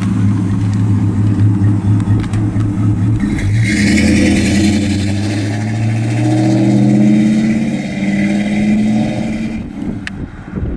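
1955 Chevrolet Bel Air's 265 cubic-inch V8 running steadily, then pulling away under acceleration. Its note rises, drops back about six seconds in, rises again, and falls off sharply near the end.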